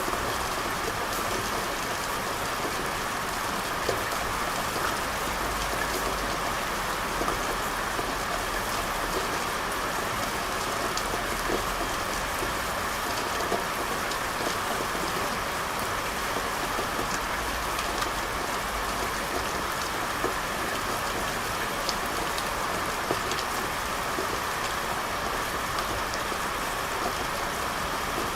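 Steady rain falling on a hard surface, a continuous even hiss with scattered individual drop ticks.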